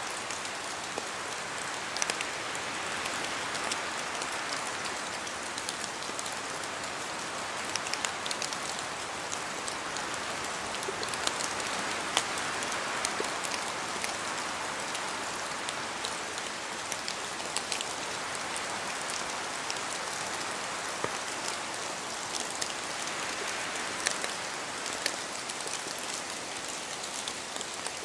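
Steady rain hissing through forest trees, with heavier drops falling from the leaves in sharp, irregular taps. The hiss swells and eases slowly as wind moves through.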